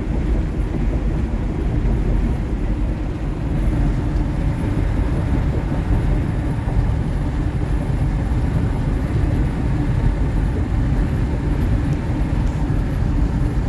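Steady engine and road noise inside a Kenworth T680 semi-truck's cab as it drives along the interstate.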